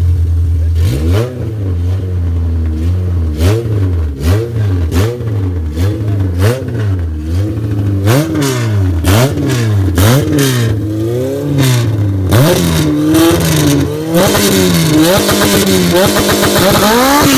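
Car engine revved hard over and over, the pitch climbing and dropping about once a second. Near the end the revs come quicker and higher, and a loud hissing noise builds up under them.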